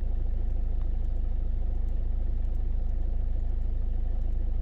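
Kia Carnival's turbo-diesel engine idling steadily.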